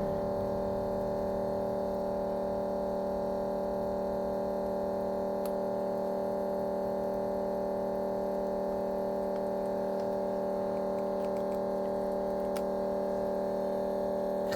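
A steady, unchanging hum made of several fixed tones, with a few faint clicks.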